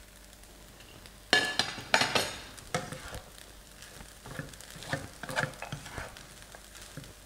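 Fried rice being stirred and tossed in a hot pan: a utensil starts scraping and knocking against the pan about a second in and keeps going in repeated strokes, over a faint sizzle.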